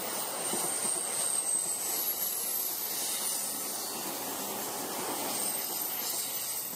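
Suburban electric multiple-unit train running past on curved track: a steady rushing rail noise, with faint high-pitched wheel squeal from the curve.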